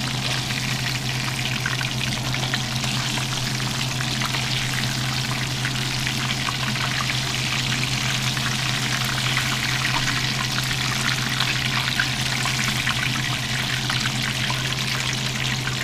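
Breaded catfish pieces frying in hot oil in a cast-iron skillet: a steady, dense sizzle and crackle of bubbling oil over a steady low hum.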